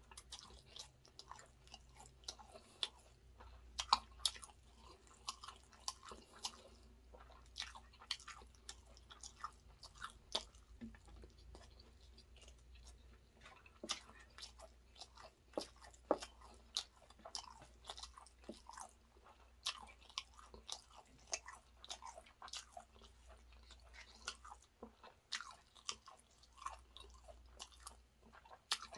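A person chewing mouthfuls of chicken biryani rice, with a steady run of short wet clicks and smacks from the lips and mouth.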